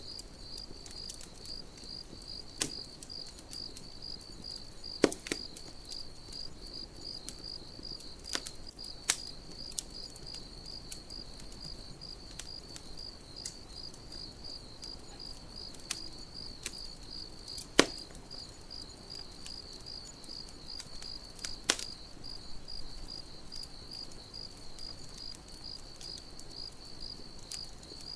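Crickets chirping in a steady, evenly pulsed, high-pitched rhythm, with a campfire crackling underneath and a handful of sharp pops from the burning wood.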